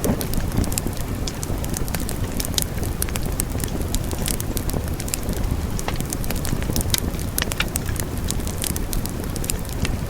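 Wood fire burning with a steady low rumble of flames and frequent sharp crackles and pops scattered irregularly.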